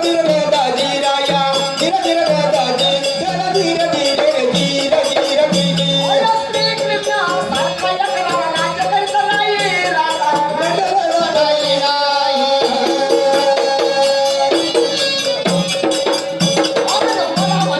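Marathi Kalgi shahiri folk music: a wavering melody over a held drone tone, with dense shaken, jingling percussion and a steady low beat.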